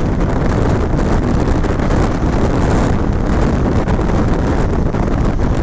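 Wind buffeting the microphone held out of a moving passenger train, over the train's steady running noise on the track.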